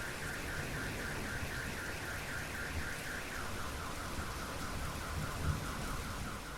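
Car alarm sounding a rapid repeating chirp, about five a second, that drops to a lower pitch about halfway through, over steady rain.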